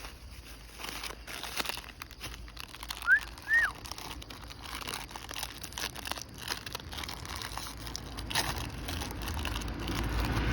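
Crinkling of a plastic biscuit wrapper being handled, with many small scattered crackles. About three seconds in come two short high chirps, each rising then falling; a low rumble builds near the end.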